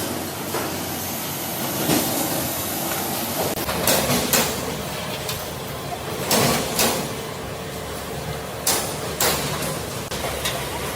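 Workshop noise: a steady noisy background broken by irregular sharp knocks every second or two, some in close pairs, each with a short ring after it.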